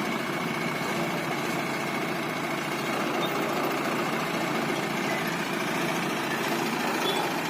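Heavy vehicle's diesel engine running steadily at low revs.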